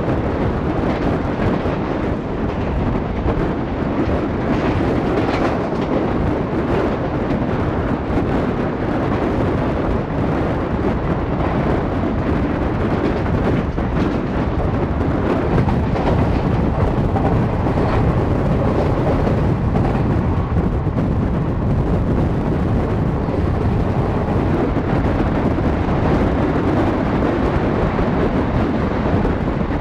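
Steady rumble of a passenger coach running at speed on the rails, heard from the open doorway, with wind buffeting the microphone.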